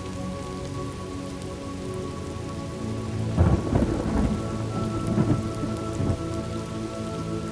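Thunderstorm ambience: steady rain with a roll of thunder starting about three seconds in, several sharp cracks over the next few seconds, then rumbling as it fades.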